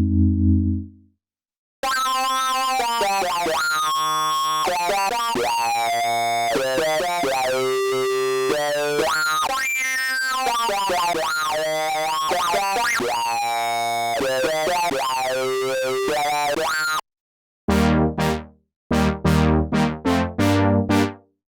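Sequential Fourm analog polysynth playing a hard-sync lead preset (Syncing Pressure): a melody whose bright overtones sweep up and down continuously. After a brief pause near the end, it switches to short, punchy brass chords from the Fourmer Brass preset.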